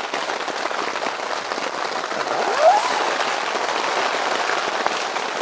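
Steady rain pattering on the fabric of a hot tent, heard from inside. A brief rising tone sounds about halfway through.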